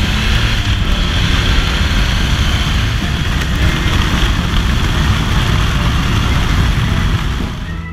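Triumph Rocket III Roadster's 2,294 cc inline three-cylinder engine running steadily, with a rush of wind noise over it.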